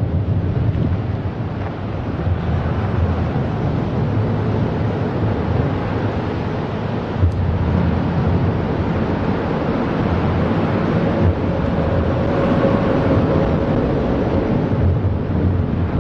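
Freight train rolling past, a steady rumbling rush of wheels on rail, with a couple of faint ticks.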